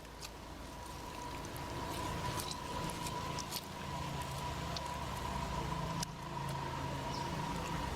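Limes being squeezed by hand, the juice dribbling into a bowl of slimy aloe vera water, with small wet squelches and clicks. A faint steady tone runs underneath.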